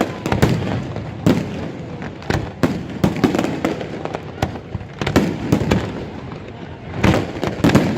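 Fireworks display: aerial shells bursting in a rapid, irregular series of sharp bangs and booms, with clusters of bursts a little past the middle and near the end.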